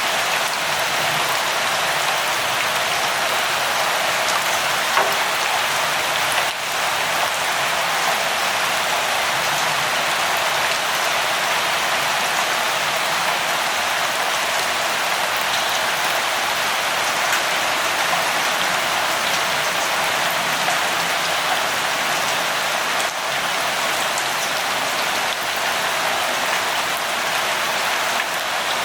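Steady rain falling, an even hiss of many drops with the odd louder drop standing out.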